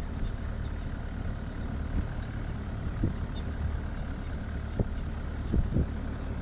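Game-drive vehicle's engine running at low speed, a steady low hum, with a few short knocks scattered through.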